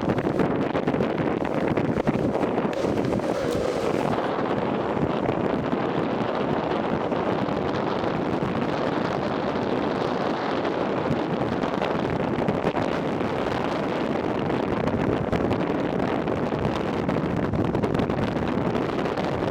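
Steady rush of wind over the microphone mixed with the roll of longboard urethane wheels on asphalt at downhill race speed.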